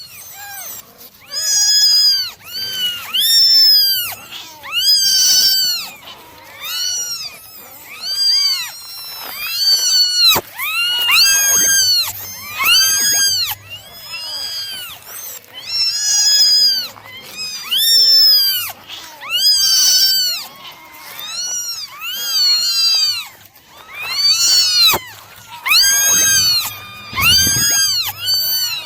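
Several kittens meowing over and over, their high-pitched calls rising and falling and often overlapping, about one or two a second.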